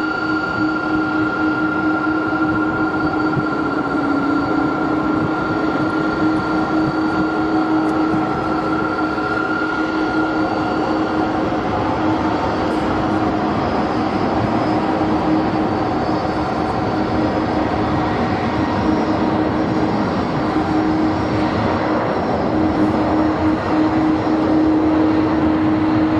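Steady vehicle noise: a continuous rush with a constant low hum and a high whine that fades out about halfway through.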